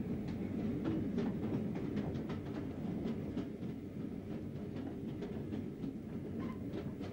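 Train running along the track: a steady low rumble with faint, irregular clicks.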